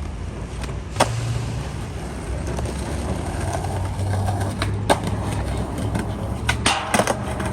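Skateboard wheels rolling over pavement with a steady low rumble. Sharp clacks of the board come about a second in and near five seconds, and a quick cluster of clacks follows near seven seconds.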